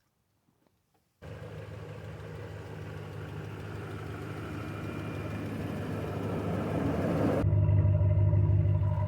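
An engine running steadily, starting suddenly about a second in and slowly getting louder, with an abrupt change in its sound near the end.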